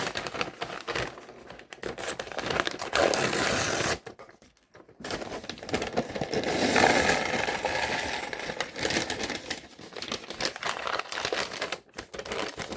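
Crinkling of a plastic LEGO parts bag being handled and torn open, in uneven spells with a short pause about four seconds in.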